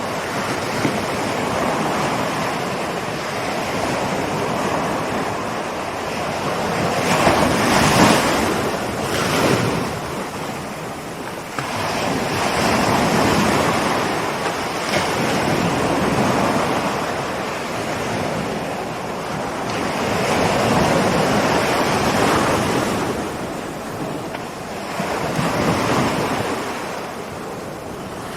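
Ocean surf: rolling waves wash in and draw back, a steady rush of water that swells and fades every few seconds.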